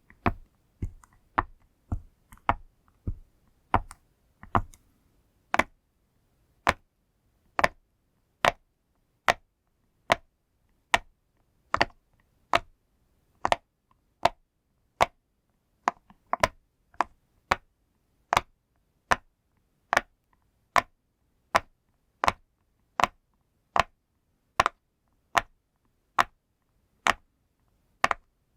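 Bubbles of a push-pop fidget toy pressed one after another, each giving a short, sharp pop. For the first few seconds they come about two a second with a dull thud under each. Then they settle into a steady run of slightly more than one pop a second.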